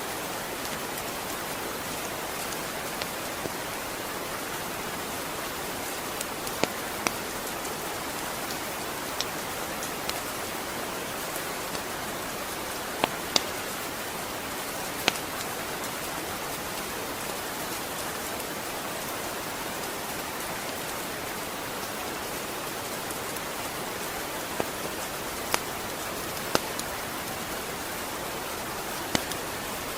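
Steady rain falling, an even hiss with scattered louder individual drops ticking sharply every second or two.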